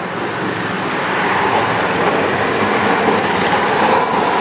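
A Toei Arakawa Line streetcar, the Hana 100 flower tram, running along the track. The rumble grows steadily louder as it approaches.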